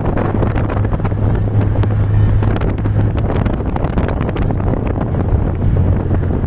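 Wind buffeting the microphone: a loud, rough rumble with crackling, over a steady low hum.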